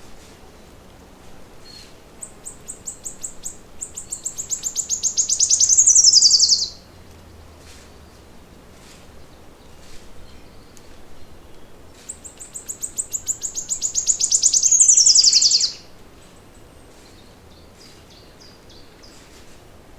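A songbird singing the same song twice. Each song is a rapid run of high repeated notes that speeds up and grows louder for about four seconds, then ends in a quick falling flourish. Faint chirps from other birds come in between.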